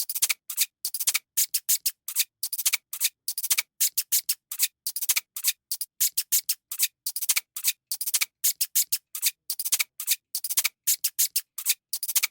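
A rapid, uneven series of short scratching or rubbing strokes, about four a second.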